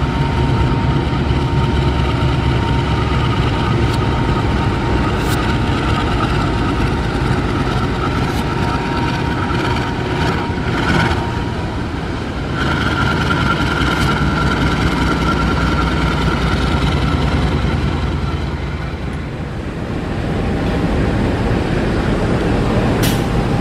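Diesel-hauled passenger train running slowly into its terminus: a steady low engine rumble and running noise, with a thin, steady high whine over it.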